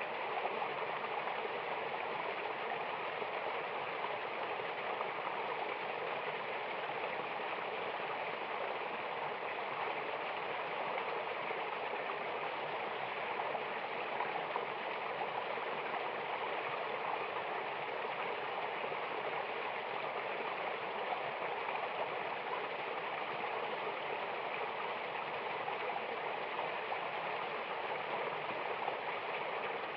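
Mountain river water rushing down a waterfall, a steady, even rush with no breaks or changes.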